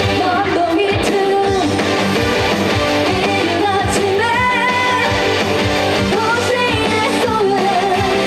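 Trot song performed live through a PA: a woman singing with vibrato over amplified accompaniment with guitar.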